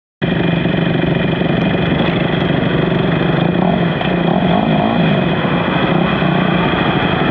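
Race motorcycle engines running steadily, cutting in abruptly about a quarter second in.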